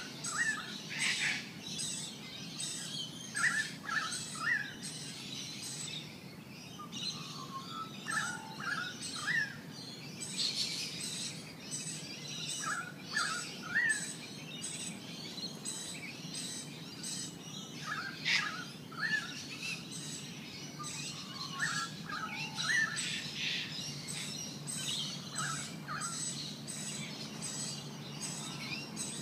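Birds chirping: short rising chirps in clusters of two or three, repeated every few seconds over a steady low background hum.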